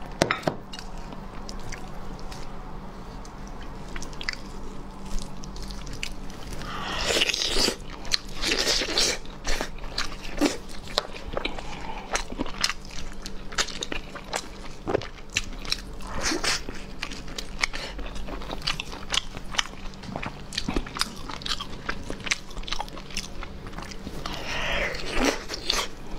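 Close-up mukbang eating sounds: someone biting, tearing and chewing boiled meat off the bone, with many small wet clicks and smacks. The sound grows louder and thicker for a couple of seconds about seven seconds in, and again near the end.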